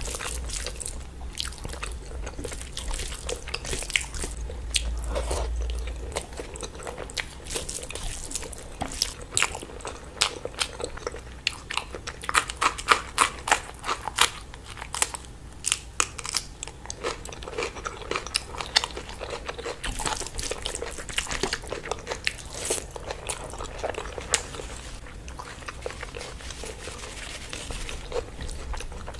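Chewing and biting as rice and curries are eaten by hand, with a dense run of crunchy bites about halfway through as a raw green chilli is bitten into.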